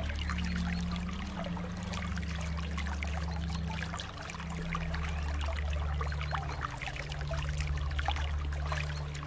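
Flowing water trickling and splashing, with many small droplet-like splashes over a steady low rumble.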